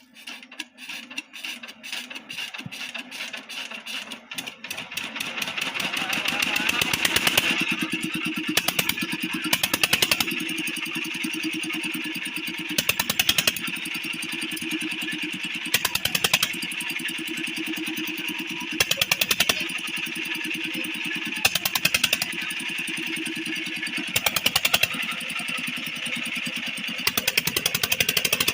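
8 HP single-cylinder diesel pump-set engine starting: fast, even firing that comes in suddenly and grows louder over about six seconds as the engine picks up speed, then settles into steady running with a louder surge every two to three seconds.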